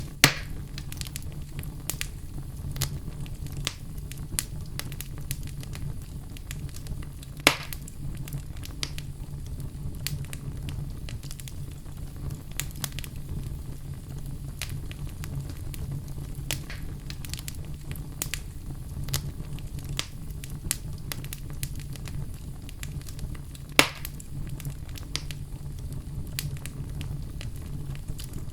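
Wood fire in a fireplace crackling steadily over a low rumble, with frequent small snaps and three louder pops: one just after the start, one about a quarter of the way in, and one near the end.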